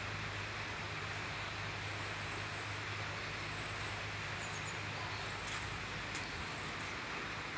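Outdoor yard ambience: a steady hiss with a low hum underneath, and high-pitched insect trills coming and going several times, each lasting about a second.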